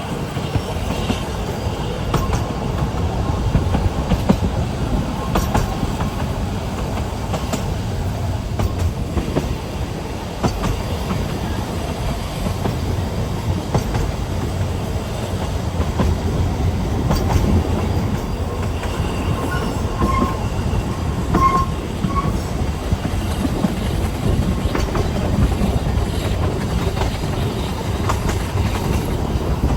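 Narrow-gauge Ffestiniog Railway train running along the track: a steady rumble and rattle of wheels on rail, with a few short, faint wheel squeals about two-thirds of the way through.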